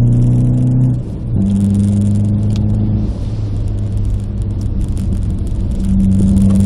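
Renault Clio RS 172's four-cylinder engine running under throttle, heard from inside the cabin. About a second in the note dips briefly and picks up again at a lower pitch, like a gear change. It eases from about three seconds and is strong again near the end.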